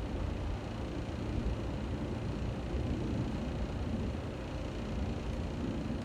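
Steady outdoor rushing noise, heaviest in the low end and without distinct events: a waterfall across the street mixed with road traffic going by.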